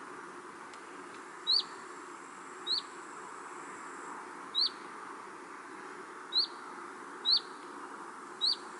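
A single bird repeating a short, sharp chirp six times, one every second or two, over a steady background hiss.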